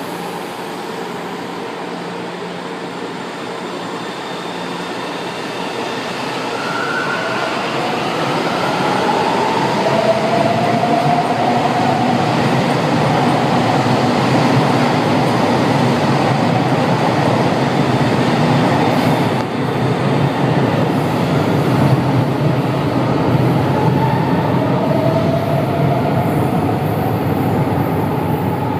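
São Paulo Metro Line 2 subway train moving through the station. It grows louder over the first ten seconds or so, then runs loud and steady. Short whining tones slide in pitch about a third of the way in and again near the end.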